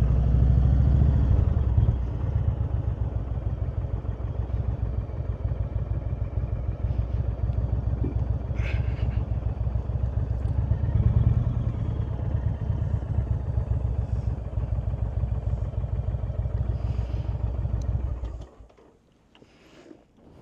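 Indian Super Chief Limited's V-twin engine running, likely through its aftermarket Rush exhaust. It is louder for a moment near the start and again about halfway through, then cuts off abruptly near the end as the engine is shut off, leaving a few faint clicks.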